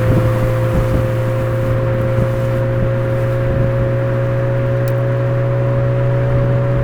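Suzuki Swift Sport ZC33S's 1.4-litre turbocharged four-cylinder breathing through a Fujitsubo aftermarket exhaust, running at steady revs as the car drives: a steady drone whose pitch creeps slightly upward.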